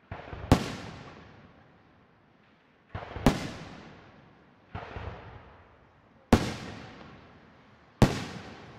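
Aerial firework shells bursting: five sharp bangs a second or two apart, the middle one weaker, each trailing off in a long echo.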